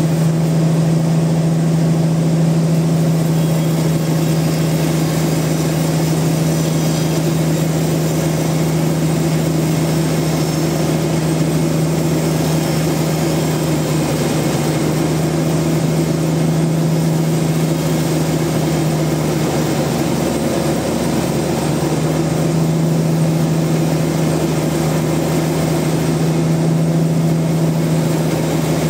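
Sawmill machinery running steadily: a constant engine drone with a strong low hum, which wavers briefly about two-thirds of the way through.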